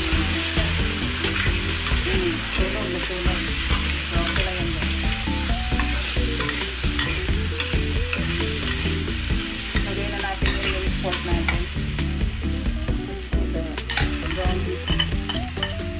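Diced potatoes and carrots frying and sizzling in a stainless steel wok while a metal spatula stirs them, scraping and clinking against the pan. A steady low hum runs underneath, and a few sharper clinks come near the end as the pan is worked.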